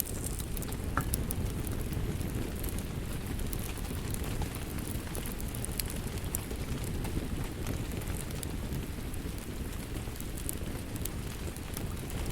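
Wood fire in a fireplace burning with a steady low rumble and frequent small crackles and pops.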